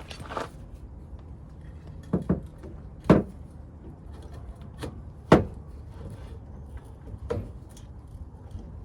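A series of sharp knocks and clunks of tools and parts being worked, about six at uneven intervals, the loudest about three and five seconds in, over a steady low hum.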